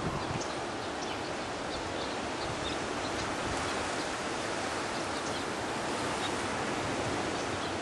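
Strong wind storm blowing steadily: a dense, even rushing noise with no let-up.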